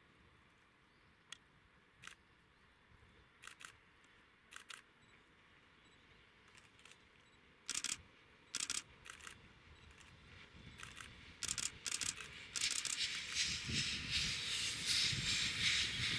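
Scattered sharp clicks, several in quick pairs, then from about three-quarters of the way through a rising rushing rumble as a train approaches.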